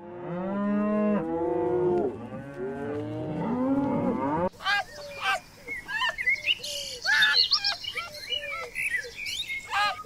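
Several cows mooing at once, long overlapping calls that rise and fall. About halfway through the sound changes abruptly to a busy flurry of short, higher animal calls.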